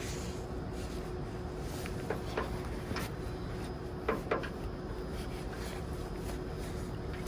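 A few light taps and knocks from handling cleaning tools during engine-bay cleaning, in two pairs about two and four seconds in, over a steady low hum.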